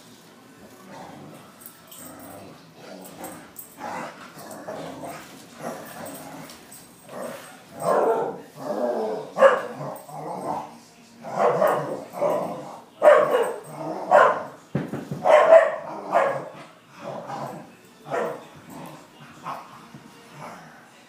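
Wheaten terrier barking repeatedly in excited play during a chase, short barks in quick runs that are loudest through the middle stretch.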